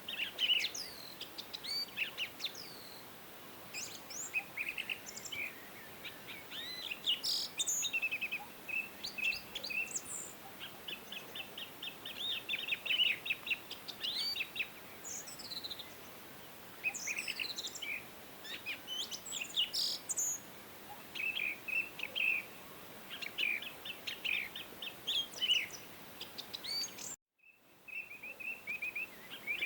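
Several songbirds singing together, with fast trills of repeated high notes and short chirps overlapping over a faint background hiss. The sound drops out completely for a moment near the end.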